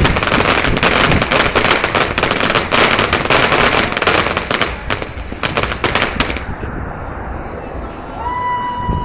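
T-Rex firework going off in a fast, dense run of crackling pops that thins to a few scattered pops about five seconds in and stops about six and a half seconds in.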